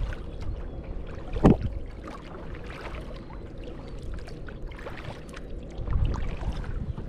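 Water splashing and dripping around a kayak as it is paddled, with one sharper, louder hit about a second and a half in and livelier splashing about six seconds in.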